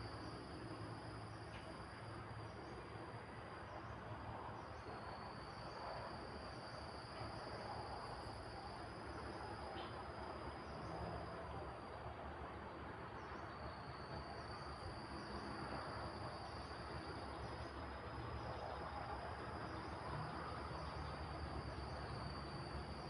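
Crickets trilling steadily at a high pitch, with short chirps repeating about once a second, over a low, swelling rush of wind.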